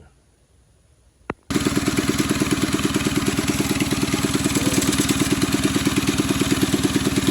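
Near silence with a single click, then, about a second and a half in, a mini bike's small single-cylinder engine running at a steady, even idle. It is running on the carburetor's previous jetting, before being jetted down.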